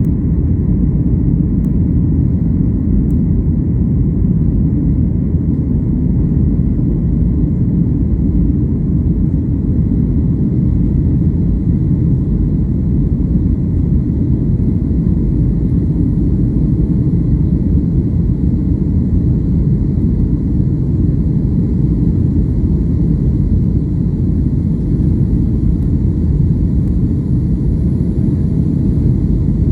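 Airplane cabin noise: a steady, even low rush of engine and air noise with no change in level, and a faint thin high whine that comes in about halfway through.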